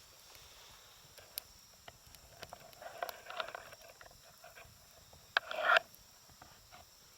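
Campfire burning with faint scattered crackles and pops. Two louder noises of about half a second stand out, one about three seconds in and a louder one near 5.5 seconds.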